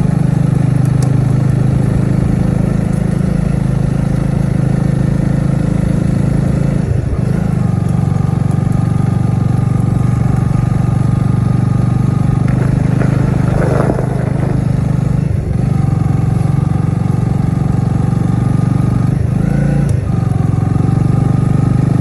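A motor vehicle's engine running steadily and loudly, its pitch shifting a few times.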